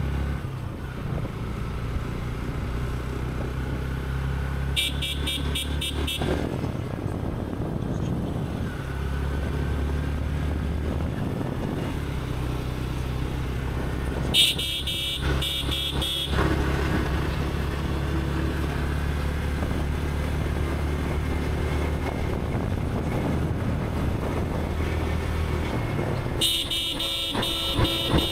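Motorcycle engine running steadily while riding, with a horn sounded three times in short bursts of quick repeated toots.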